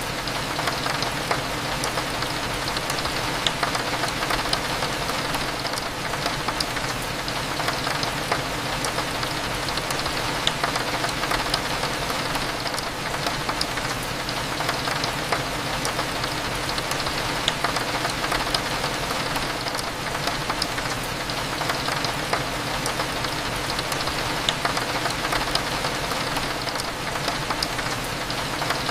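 Steady rain, with many small drops ticking against a window, over a low, even hum.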